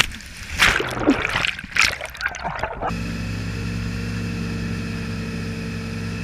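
Splashing and rushing water in irregular bursts, then an abrupt switch about three seconds in to the steady drone of a motorboat engine.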